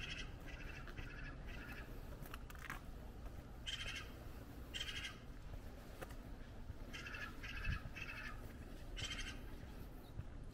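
A bird gives harsh calls in short runs, about half a second apart: four at the start, two in the middle, then three and a single one near the end, over a steady low outdoor background.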